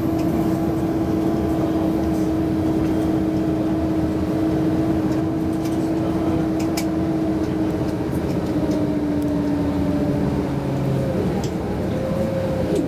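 Bombardier CRJ-900 jet's steady cabin noise, its rear-mounted engines giving a constant hum that dips slightly in pitch in the last few seconds.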